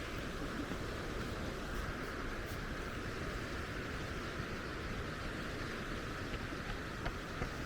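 Steady seaside ambience: an even wash of sea and wind noise, with a few faint ticks near the end.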